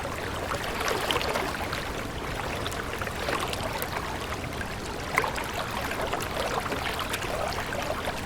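Water running in a stream, a steady rush with irregular small gurgles and splashes.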